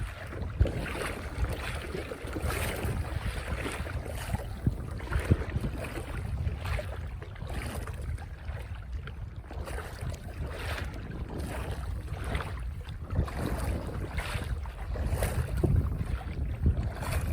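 Wind buffeting the microphone as a steady low rumble, with irregular short knocks and rustles throughout.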